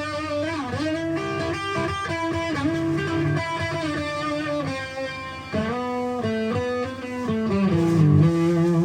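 Guitars playing a lead line with sliding notes over chords.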